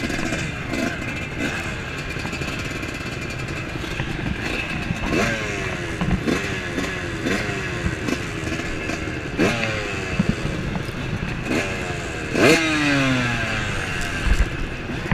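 Motocross bike engines idling, with a series of throttle blips from about five seconds in whose revs drop away quickly after each one; the loudest blip comes near the end.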